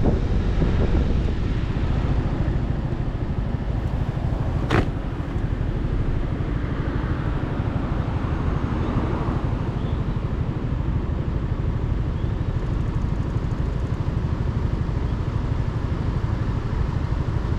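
Steady on-board sound of a motorcycle being ridden: engine and road noise mixed with wind rushing past. A single sharp click sounds about five seconds in.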